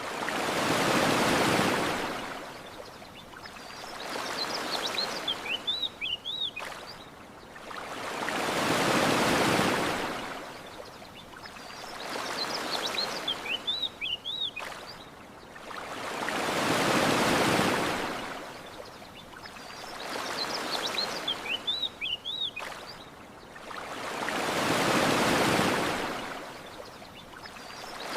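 Ocean waves washing onto a shore in a slow, even rhythm, a surge about every four seconds, larger and smaller ones in turn. Short bird chirps come between the surges, the whole pattern repeating about every eight seconds.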